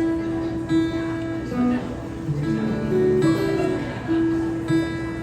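Guitar strings plucked one at a time, each note ringing on, as the out-of-tune guitar is checked by ear before tuning.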